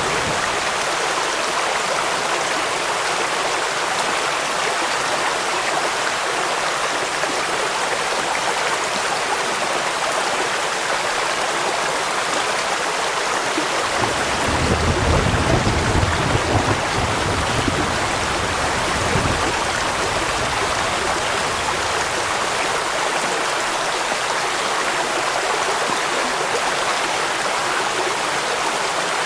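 Steady rush of a waterfall and stream with rain falling. About halfway through, a low rumble swells underneath for some five seconds, then fades.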